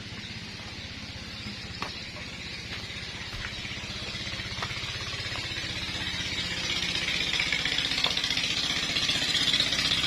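Ketinting longtail boat engine running steadily, growing steadily louder over the second half.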